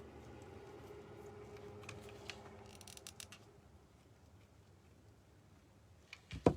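Quiet handling of craft materials while ribbon strings are glued down: a few small clicks and rustles, then a single sharp knock just before the end.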